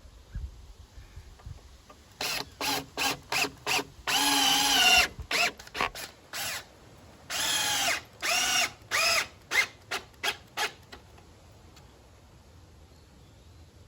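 Power drill driving screws into wooden boards: a string of short trigger pulses and two longer runs of about a second, the motor whine rising and falling in pitch. It stops about eleven seconds in.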